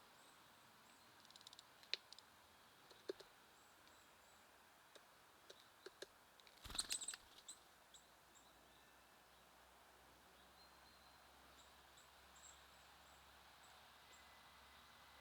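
Faint, quiet birds at a feeder: short high chip calls of small songbirds and scattered sharp clicks and taps, with a brief louder rustling burst about seven seconds in.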